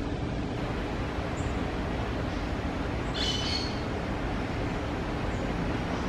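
A wild bird gives one short, high-pitched call of several notes about three seconds in, over steady background noise.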